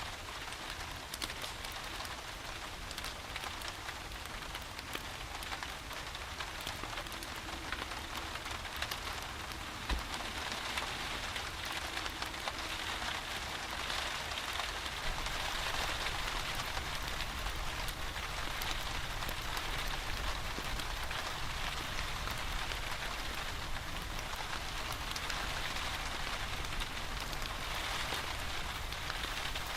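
Steady rain with many small drops pattering, over a low rumble; a single low thump about ten seconds in, after which the rain grows slightly louder.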